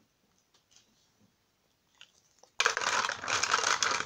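Loud crinkling rustle of craft materials being handled, starting suddenly about two and a half seconds in after near quiet.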